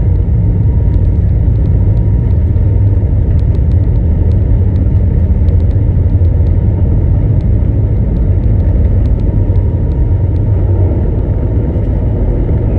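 Airbus A321 cabin noise during takeoff: a steady low rumble of the jet engines and airflow, with scattered faint ticks of cabin rattles.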